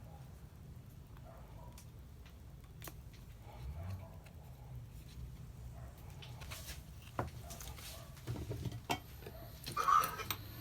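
Scattered small clicks and taps of hand tools working on a Samsung A51 smartphone during repair, over a faint low hum; a few clicks near the end are sharper.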